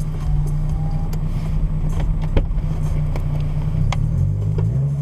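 Car engine idling steadily at a standstill, a low even hum heard from inside the cabin, with a couple of sharp clicks in the middle of the clip.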